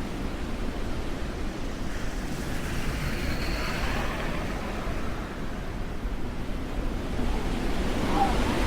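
Snowstorm wind buffeting the microphone: a steady, rushing noise with a low fluttering rumble.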